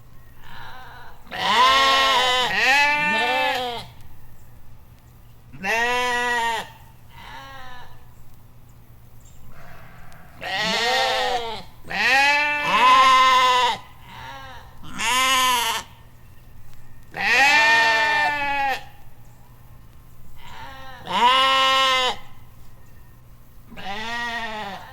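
Bleating farm animal calls, about ten in a row, each call rising and then falling in pitch, with short gaps between them.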